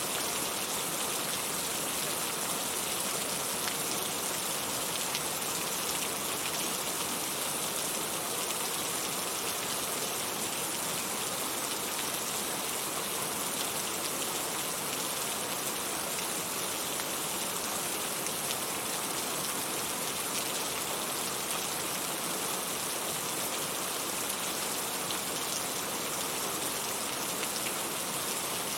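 Steady rain falling and pattering on a surface, a constant even hiss with many fine drop ticks.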